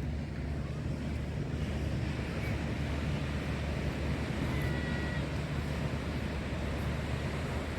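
Ocean surf washing steadily on a sandy beach, with a low rumble of wind buffeting the microphone.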